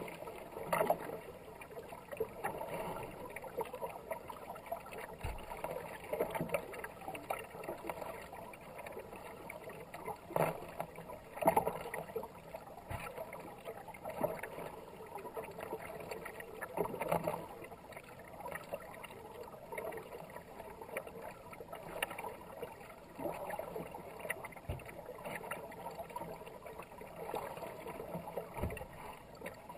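Kayak paddle blades dipping and splashing in a steady stroke rhythm, with water running along the hull on a fast, high river.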